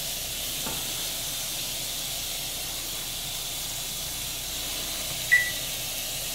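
Thin chicken breast fillets sizzling steadily in olive oil in a hot pan. About five seconds in there is one short, high ping.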